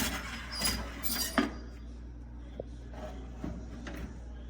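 Clinks and clatter of metal cookware being handled at a countertop pizza and toaster oven as a pizza is loaded. There is a cluster of sharp clinks with a brief ringing tone in the first second and a half, then a few faint knocks.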